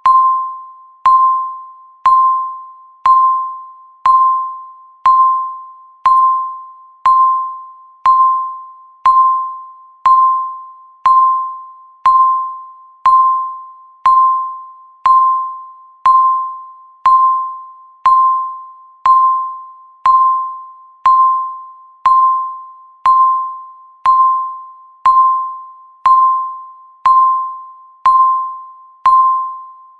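Countdown timer ticking once a second, each tick a short, clear electronic tone that fades away quickly.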